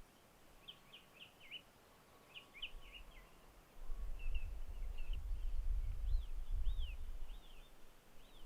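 Small songbirds singing in quick groups of chirps, then a few separate arching notes. From about four seconds in, an uneven low rumble lasting about four seconds is louder than the birds.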